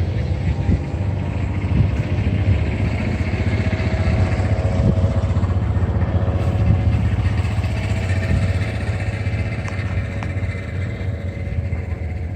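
An engine running steadily, with a low, even rumble.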